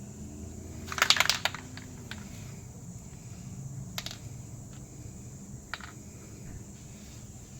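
Light clicks and clinks of hands and tools working on a car's exhaust and its rubber hangers: a quick run of clicks about a second in, then single clicks near four and six seconds, over a low steady hum.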